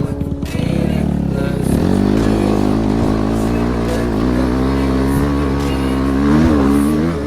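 BRZ MX8 motorcycle's NB300 single-cylinder engine running, its revs wavering up and down, with a brief rise near the end.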